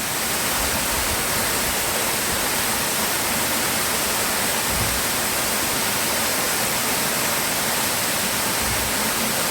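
Waterfall pouring, a steady full rushing hiss of falling water.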